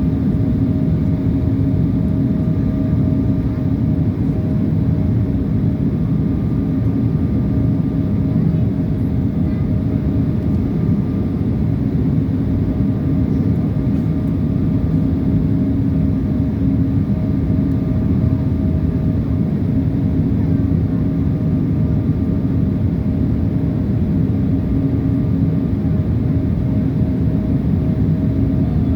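Airliner cabin noise in flight: a steady, unchanging drone of jet engines and rushing air, with a constant hum running through it.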